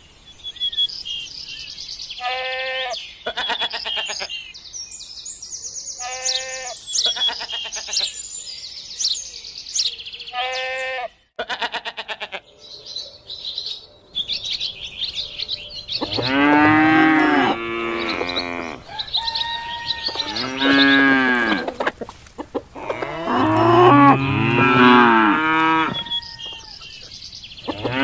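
Cattle mooing: several long, loud moos, each about two seconds, from about halfway through. Earlier come shorter high-pitched animal calls and bird chirps.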